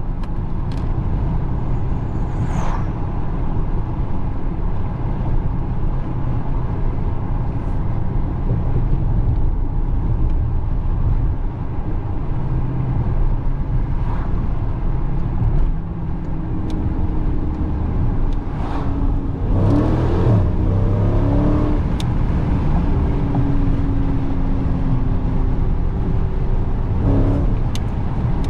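Dodge Challenger 392's 6.4-litre HEMI V8 running steadily as the car is driven, with constant tyre and road noise.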